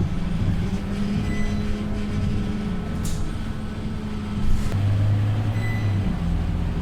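Scania K230UB bus's diesel engine running with a steady low drone. There is a short hiss about three seconds in, and a deeper, stronger engine note from about five to six seconds.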